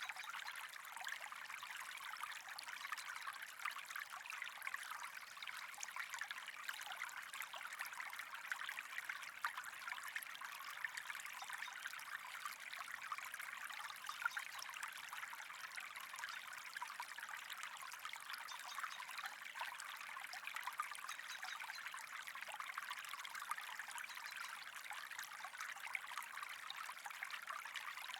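Steady trickling, flowing water, an even bright babble with many small splashes and no change throughout.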